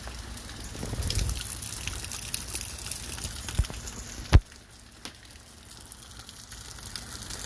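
Water running and splashing with a crackly patter, and a sharp knock about four seconds in.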